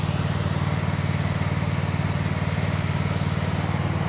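Toyota 2KD-FTV 2.5-litre four-cylinder turbodiesel idling steadily, with a fast, even pulse: the freshly assembled engine running.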